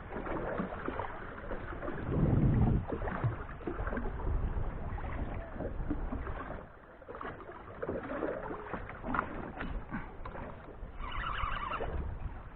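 Wind buffeting the microphone and water moving against a small fishing boat's hull, with scattered small clicks and knocks, and a louder gust about two seconds in.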